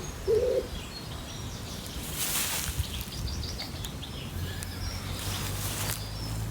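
Garden ambience: a pigeon coos once just after the start, with faint bird chirps, a brief whoosh about two seconds in, and a low steady rumble beneath.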